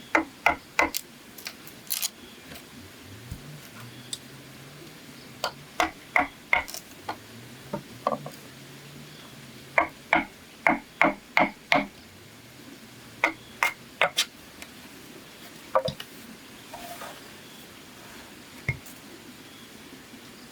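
Runs of sharp strikes on bamboo, three to six quick blows at a time with pauses between, as a tool works the bamboo frame.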